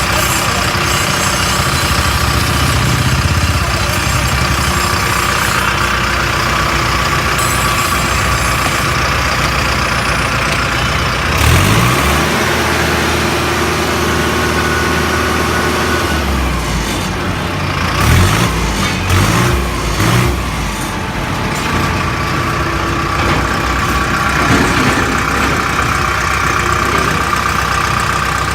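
Tractor diesel engine running steadily at idle. It is revved up about a third of the way in and held for several seconds, then blipped three times in quick succession.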